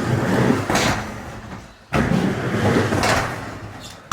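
Skateboard wheels rolling back and forth across a mini ramp's transitions. A rumble starts sharply and fades away about every two seconds, with a brief scraping hiss between each pass.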